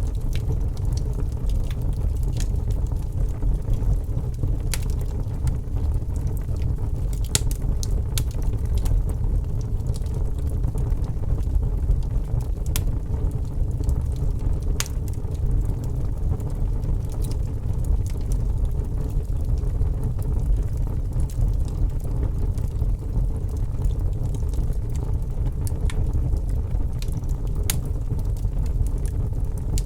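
A fire crackling: a steady low rumble of flames with sharp snaps and pops scattered at irregular intervals.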